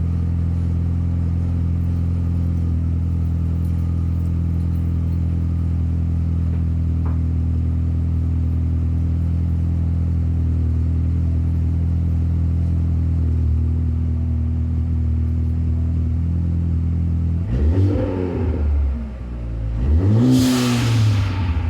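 Exhaust of a 2015 Ford Fusion's 1.5L EcoBoost turbo four-cylinder with the muffler deleted, idling steadily on a cold start. Near the end it is revved twice, each rev rising and falling back, the second the louder.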